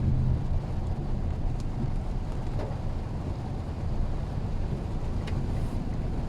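Mitsubishi Xpander on the move: a steady low rumble of engine and road noise, with a few faint clicks.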